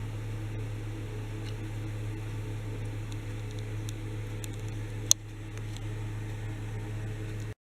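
Steady low mechanical hum, like a fan or small motor, with a few faint ticks and one sharp click about five seconds in. The sound drops out briefly near the end.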